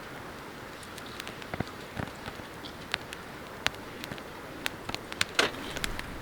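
Wood fire crackling in a small fire pit: irregular sharp pops and snaps over a steady hiss, with a louder snap near the end.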